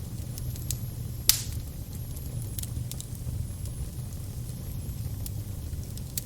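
Fire crackling over a steady low rumble, with scattered sharp pops. The loudest pop comes just over a second in.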